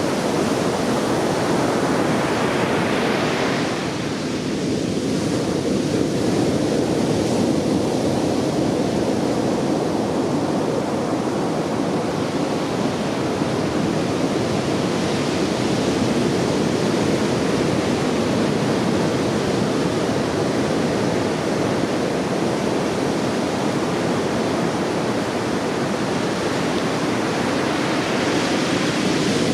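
Heavy surf from a typhoon swell breaking on the beach: a continuous rush of waves that swells a little about three seconds in and again near the end.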